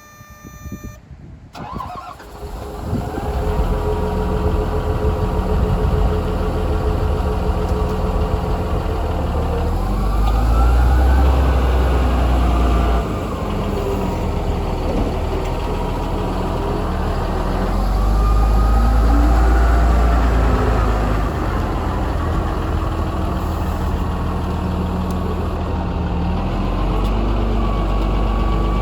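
Ford 7740 tractor's diesel engine starting about two seconds in, then running steadily. It is revved up and let back down twice along the way.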